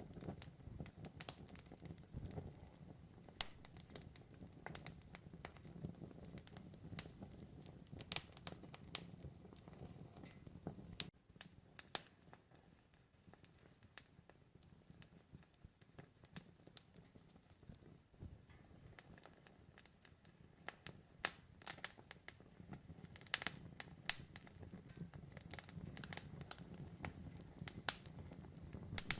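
Campfire burning, with irregular sharp crackles and pops over a low rumble of flame. The low rumble drops away about a third of the way in and builds back near the end.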